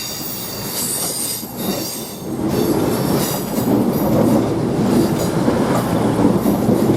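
CrossCountry Class 221 Super Voyager diesel train pulling into the platform, passing close. High-pitched squealing from the wheels and brakes in the first couple of seconds gives way to a louder rumble as the carriages draw alongside.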